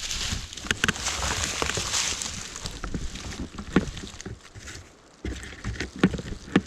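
E-bike rolling fast down a rough dirt road, its frame and parts rattling with sharp knocks over bumps, with wind rushing over the microphone.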